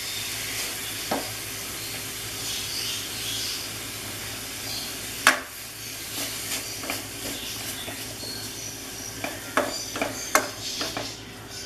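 Grated carrots sizzling in hot ghee in a pan as they are stirred with a spoon, sautéing to soften. The spoon knocks and scrapes against the pan once or twice, then several times in the last few seconds.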